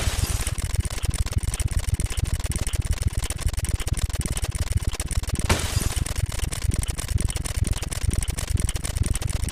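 Rapid, steady ticking of counter sound effects. About halfway through, a sudden crash like breaking glass cuts in and fades out over about half a second.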